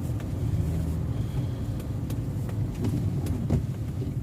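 Car driving, heard from inside the cabin: a steady low rumble of engine and tyres on the road, with a few faint scattered ticks.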